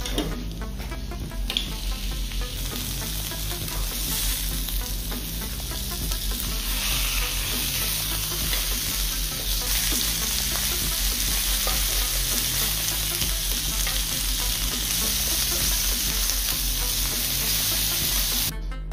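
Whole fish sizzling as they fry in oil on a ridged grill pan; the sizzle grows louder a few seconds in.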